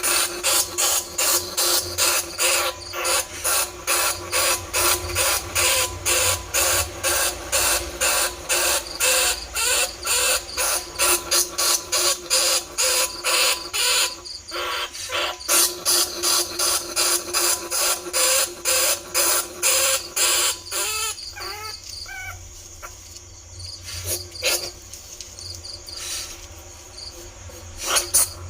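Bandicoot rat lure call: a fast, even run of raspy squeaks that breaks off about two-thirds of the way in for a quieter stretch with a few short squeaks, then starts again near the end.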